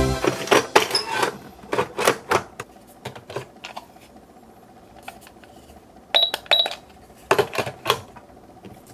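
Plastic toy cash register being handled: a run of sharp clicks and clacks from its buttons and parts, then two short high electronic beeps about six seconds in, followed by a few more clicks.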